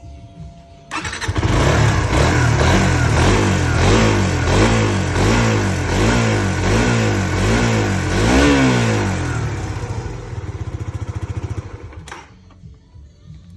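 Suzuki GSX-R125's single-cylinder four-stroke engine starting, then blipped up and down about eight times in quick, even succession, settling to idle and switching off.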